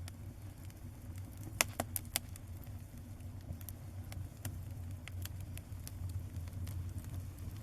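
Small fire crackling, with irregular sharp pops and snaps, a cluster of louder ones a couple of seconds in, over a steady low rumble.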